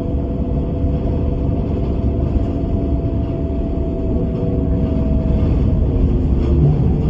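Bus engine running with a steady low rumble and a couple of faint steady whining tones. About six seconds in, the whine fades and a lower hum takes over as the engine note changes.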